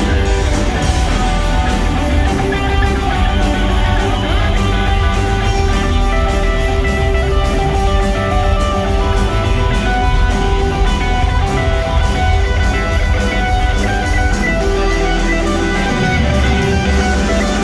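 Live rock band playing an instrumental passage: guitar over heavy bass and drums with a steady beat, recorded loud from the audience.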